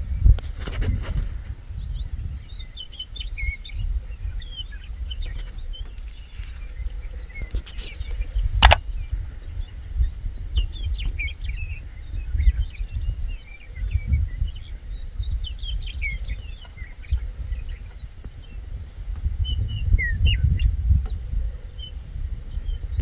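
Small birds chirping on and off over a low wind rumble on the microphone. One sharp click comes about a third of the way through.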